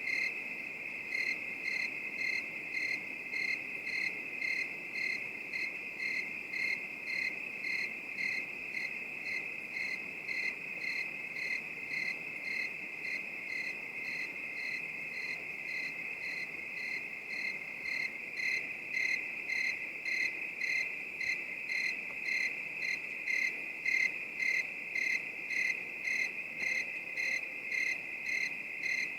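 Crickets chirping: a steady high trill overlaid by a second cricket's chirps pulsing about twice a second.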